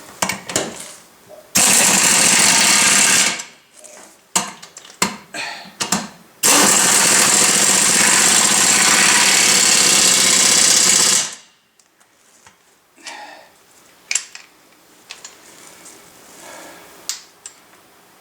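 Impact wrench with a 15/16 socket hammering lug nuts onto a tractor's wheel studs in two runs, one of about two seconds and a longer one of about five seconds, with metal clinks and knocks of socket and nuts in between and after.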